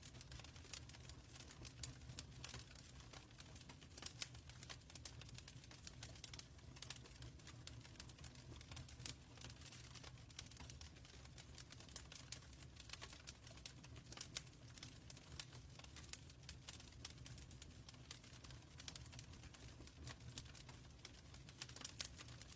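Faint wood fire crackling in a fireplace: many small, irregular pops and snaps over a low, steady rumble.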